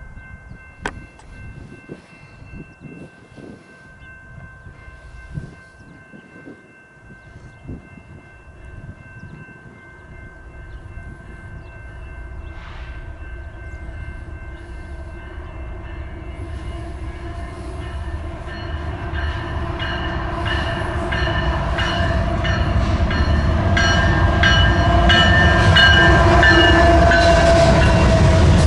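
An approaching diesel freight train led by a GE Tier 4 locomotive. Its engine rumble grows steadily louder over the second half, and the air horn sounds as several steady tones that strengthen near the end.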